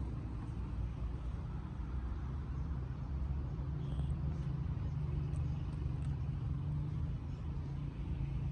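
Steady low rumble of a motor vehicle running, with no clear change in pitch.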